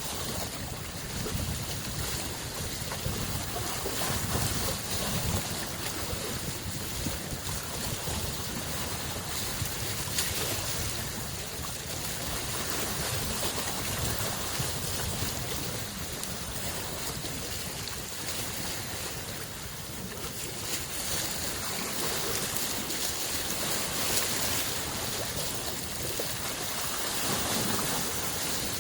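Small waves on a large freshwater lake washing against the shore: a continuous, uneven wash with a low rumble, swelling into louder hissing spells now and then.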